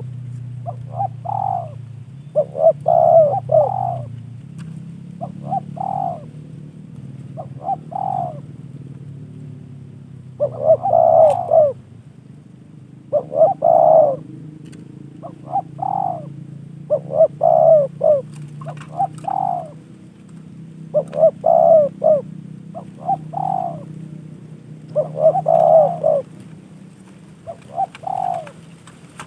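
Spotted dove (tekukur) cooing over and over, short phrases of a few coos every one to two seconds, over a steady low hum.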